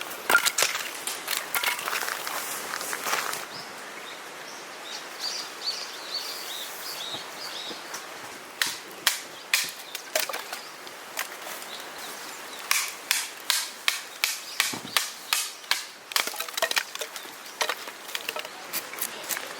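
Dry wood cracking and snapping in a rapid series of sharp cracks, thick in the first few seconds and again, about two a second, through the second half. A bird chirps a few times in the quieter middle stretch.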